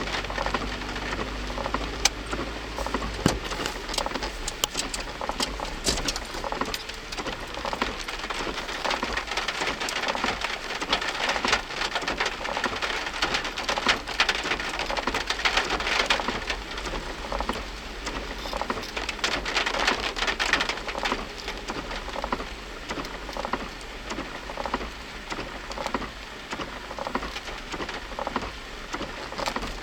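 Heavy rain falling steadily, with many sharp individual drop hits and a low steady rumble underneath.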